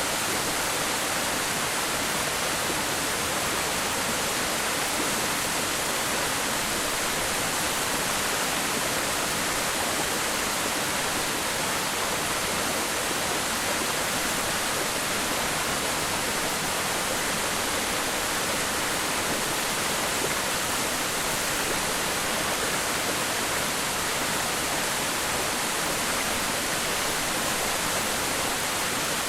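Waterfall: water falling and splashing onto rock and into a pool, a steady, even rushing hiss.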